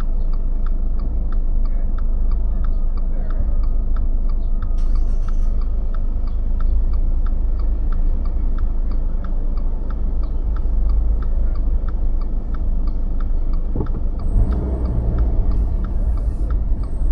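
Car indicator clicking evenly, about three clicks a second, over the steady low rumble of the engine and tyres, heard inside the cabin. A short knock comes about fourteen seconds in.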